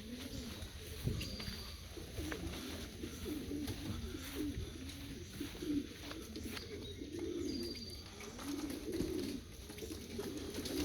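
A group of young racing pigeons cooing, many low calls overlapping one another without a break, with a few light knocks among them.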